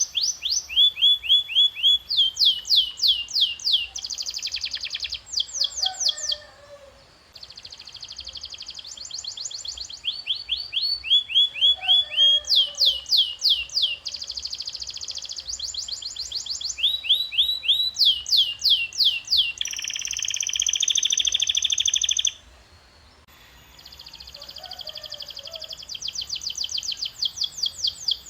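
Domestic canary singing a long song in repeated phrases: runs of fast down-sweeping whistled notes, several a second, alternating with dense buzzy trills. The song breaks off briefly twice, about seven and twenty-three seconds in.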